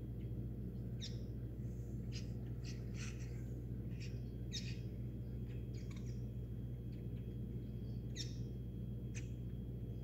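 Weaver birds chirping: short, high chirps scattered irregularly, about a dozen in all, over a steady low hum.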